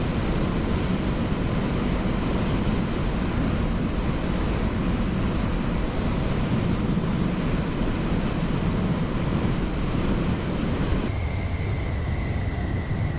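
Honda CB500F parallel-twin motorcycle riding at speed, engine running under a steady rush of wind on the helmet-mounted microphone. About eleven seconds in the sound changes and a faint steady high whine comes in.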